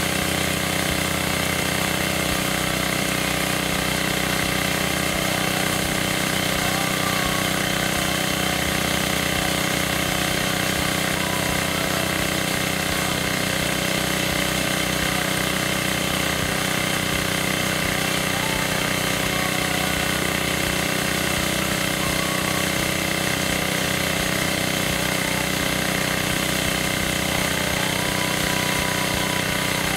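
Small engine of a homemade 2-inch gold dredge running steadily at a constant speed.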